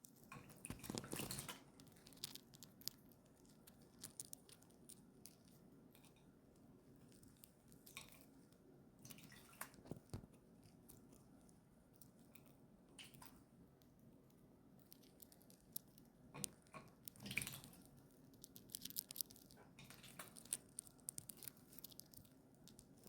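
A small pet parrot bathing: faint, irregular splashes and drips of water, with a louder flurry about a second in and again around seventeen seconds.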